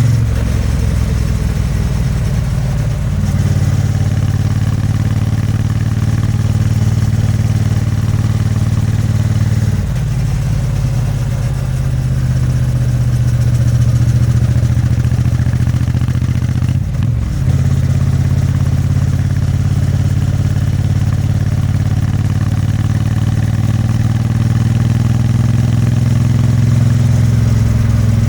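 Triumph Bonneville T100's 900 cc parallel-twin engine and exhaust running under way at a steady note. The note breaks briefly three times.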